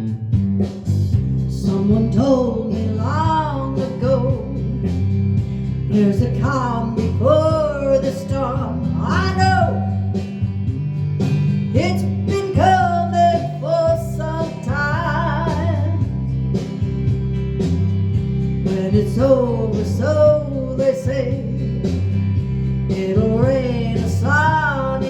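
A song performed by a singer over guitar accompaniment, with a steady low bass line underneath.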